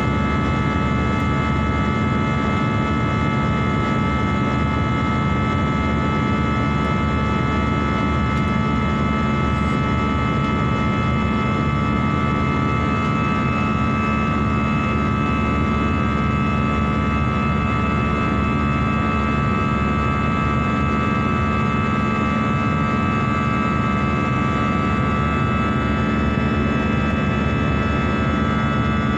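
Steady drone of a jet airliner heard inside the passenger cabin: a low rumble of engines and airflow with a hum and several steady high tones over it, unchanging throughout.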